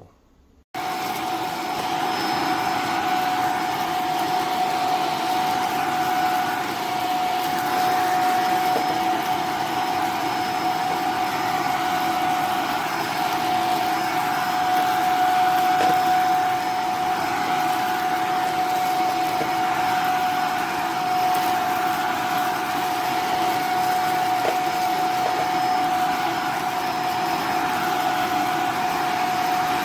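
iwoly V600 corded stick vacuum cleaner running: a steady whine over a rushing hiss, switching on abruptly about a second in.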